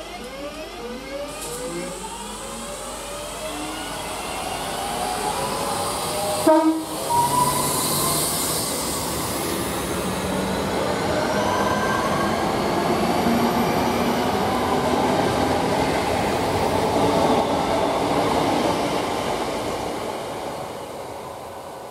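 Class 323 electric multiple unit pulling past the platform: its traction motors whine in several pitches that rise together, a short horn sounds about six seconds in, then the wheels and coaches rumble and clatter past steadily before fading near the end.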